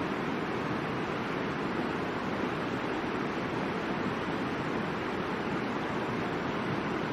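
River water rushing steadily over rocks: a constant, even wash of flowing-water noise.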